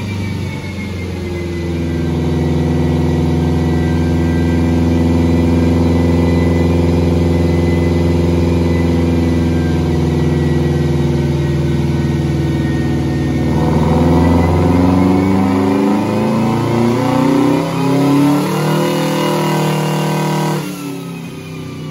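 2002 Subaru WRX's turbocharged flat-four engine running hard on a chassis dyno, holding a steady note for several seconds. About two-thirds of the way through the note changes and breaks up, and near the end it drops off.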